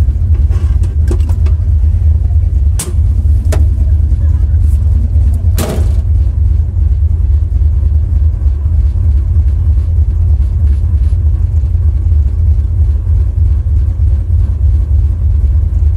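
Vehicle engine idling, heard from inside the cab as a steady deep rumble, with a few sharp knocks in the first six seconds.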